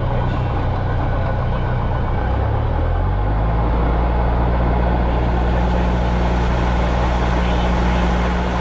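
Cessna 172 Skyhawk's piston engine running steadily; its note changes to a different speed about three seconds in.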